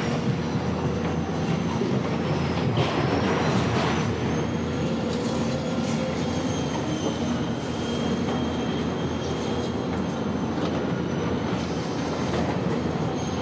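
A steady vehicle running sound, a continuous rumble with faint thin high squealing tones above it. It starts and stops abruptly.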